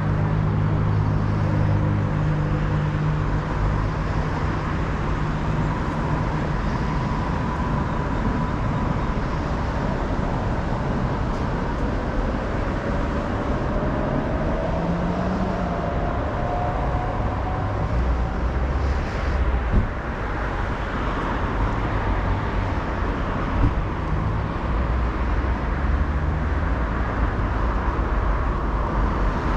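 Steady street traffic noise of passing cars and other vehicles. A low engine hum sounds in the first few seconds, and a vehicle's slowly rising whine comes around the middle.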